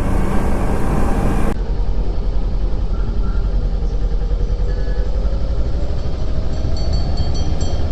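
Kawasaki Ninja 300's parallel-twin engine running steadily while the bike is ridden along the road.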